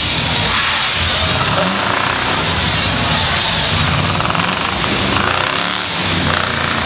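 Modified off-road competition truck's engine running steadily on a dirt course, with a continuous dense noise throughout.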